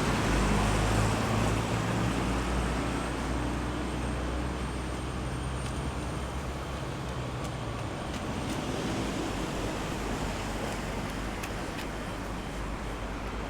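Road traffic at a roundabout: a passing vehicle's engine hum, loudest at the start and fading away over the first several seconds, leaving a steady wash of traffic noise.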